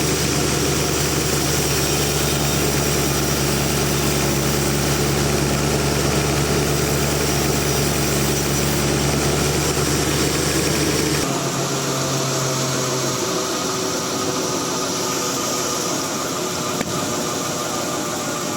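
Sawmill engine running steadily at idle with a low hum. About eleven seconds in, the low hum cuts out, leaving a steady noisy whir.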